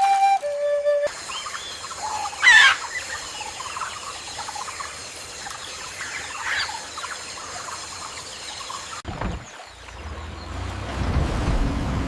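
Birds calling, with a loud sliding squawk about two and a half seconds in and another call around six and a half seconds. After an abrupt cut about nine seconds in, a low engine rumble of heavy machinery rises near the end.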